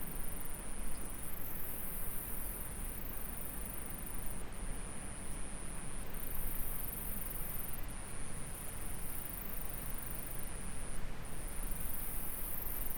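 Steady, very high-pitched insect trill, broken by brief gaps every couple of seconds, over the even rush of flowing stream water.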